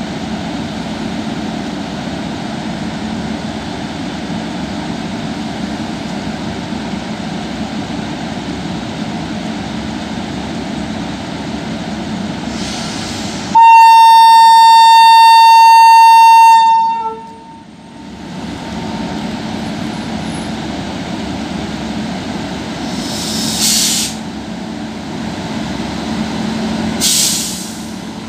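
WAP-5 electric locomotive hauling a passenger train as it rolls in along the platform, with a steady rumble and hum. About halfway through it sounds one long, very loud single-note horn lasting about three seconds. Two short hisses follow near the end.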